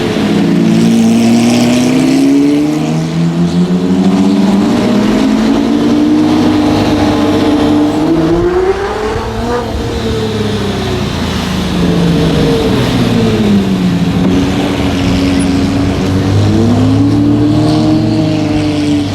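Lamborghini Murcielago LP640's V12 through a straight-piped Fi exhaust, under way. The engine note climbs steadily for about nine seconds, falls away over the next few seconds, then rises again and holds.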